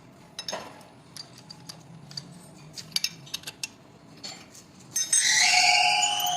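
Metal tools and parts clinking as they are handled, then about five seconds in a power tool starts with a loud whine that rises slightly in pitch as it spins up.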